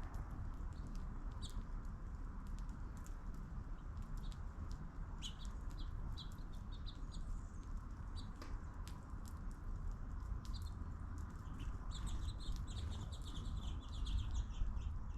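Small birds chirping in short, scattered calls, with a quicker run of chirps near the end, over a steady low rumble.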